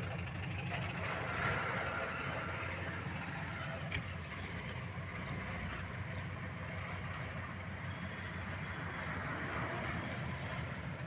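Volkswagen Fusca (Beetle)'s air-cooled flat-four engine idling steadily.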